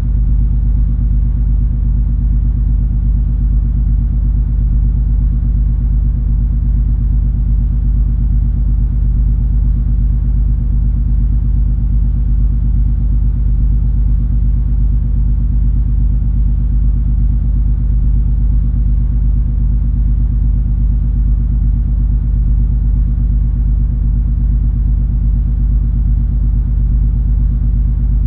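Cruise ferry's engine and hull noise heard on board: a steady low drone with a few even low tones and no change.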